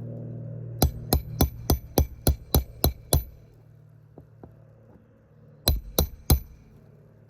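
Hammer blows on a shingle roof: a quick run of about nine strikes, three or four a second, then a short pause and three more strikes.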